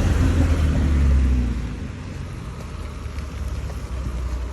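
A motor vehicle driving past close by, loudest in the first second and a half, then fading to a lower, steady engine and road noise.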